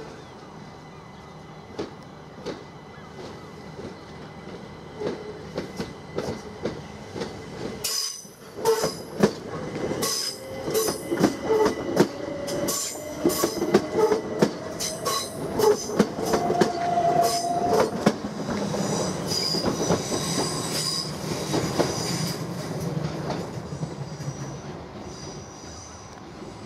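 Southern Class 377 Electrostar electric multiple unit moving slowly on curved track: wheels click sharply over rail joints and points, a whine rises in pitch through the middle, and the wheels squeal shrilly on the curve before the sound fades.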